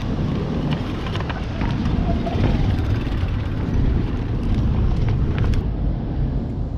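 Street traffic: vehicle engines and tyres making a steady low rumble, with scattered short clicks and knocks over it.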